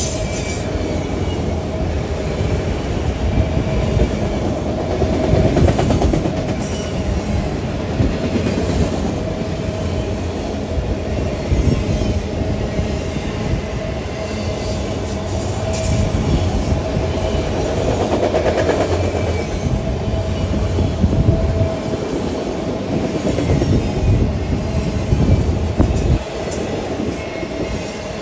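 Freight train of autorack cars rolling past close by: steady rumble and clatter of steel wheels on rail, with a steady thin squeal underneath. There are occasional clanks.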